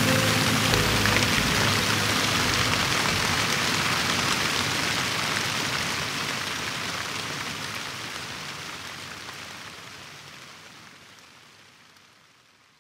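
Recorded rain, a steady hiss of falling rain, fading out slowly until it is nearly gone by the end. The last soft notes of music die away in the first few seconds.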